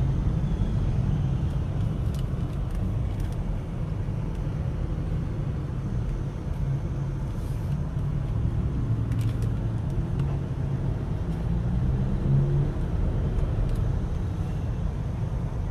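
Steady low rumble of a car's engine and tyres heard from inside the cabin while driving slowly in heavy traffic.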